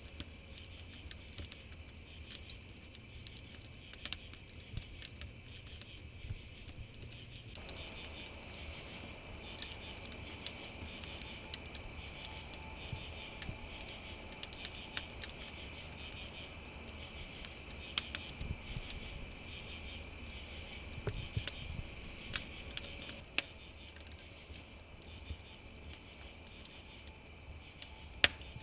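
Crickets chirring steadily in a chorus, with a wood campfire crackling and popping in sharp, irregular snaps, a few of them louder.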